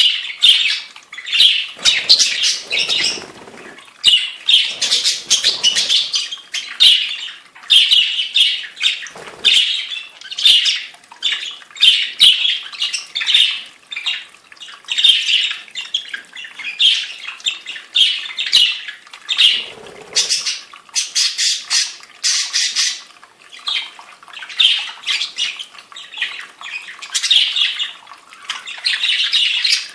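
A group of small caged pet birds chattering and squawking without pause, in rapid, overlapping calls, with a couple of brief low rustles among them.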